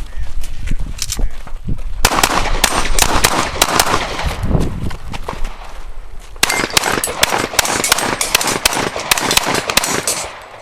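Rapid pistol gunfire from several shooters firing at once, shots overlapping irregularly. The firing is densest from about two seconds in and dies away near the end.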